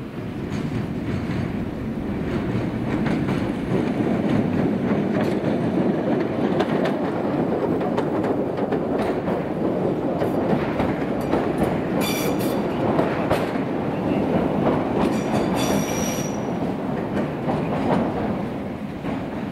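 Island Line Class 483 electric train, former London Underground 1938 tube stock, running past: a steady rumble with clickety-clack from the rail joints, swelling over the first few seconds and easing near the end. Brief high wheel squeals come twice in the second half.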